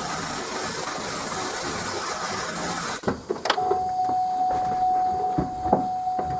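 2007 GMC Yukon Denali V8 idling just after a first start on its freshly reinstalled fuel rail, then shut off suddenly about three seconds in. A few clicks and a steady high tone follow.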